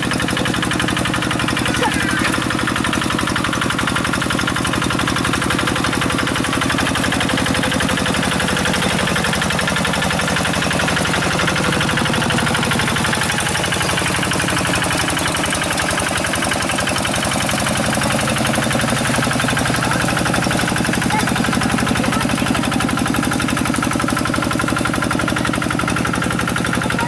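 Quick G1000 hand tractor's single-cylinder diesel engine running steadily with a fast, even chugging. Its pitch dips briefly about halfway through, then recovers.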